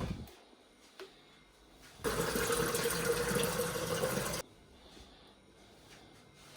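Water running from a tap for about two and a half seconds, turned on and then shut off sharply, with a steady pitched note in the flow.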